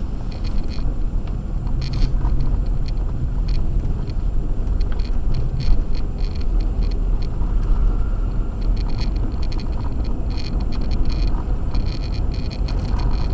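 Acura MDX driving on a snow-covered road on Sumitomo Ice Edge winter tires: a steady low rumble of tires and engine, with frequent short crackles throughout.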